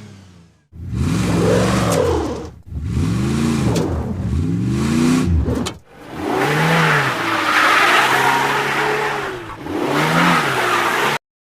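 A truck engine revving up and down again and again in three runs, with short breaks about two and a half and six seconds in. It cuts off suddenly near the end.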